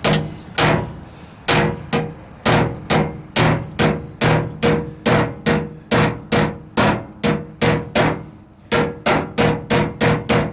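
Body hammer striking the sheet-metal front fender of a 1968 AMX to knock out a dent: a steady series of sharp blows, about two to three a second, each ringing briefly, with a short pause about eight seconds in.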